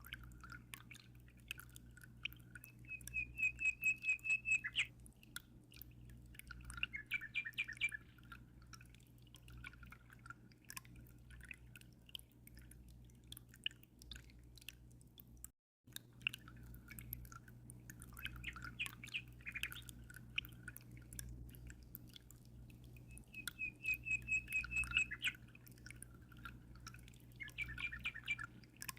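Songbirds chirping and trilling in repeated short phrases over a steady low hum and small drips and trickles of aquarium water. The sound cuts out for an instant about halfway through.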